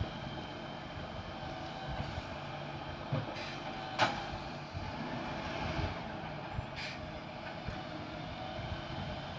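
Garbage truck running steadily at work, with a few knocks, a sharp clank about four seconds in and a short hiss near seven seconds.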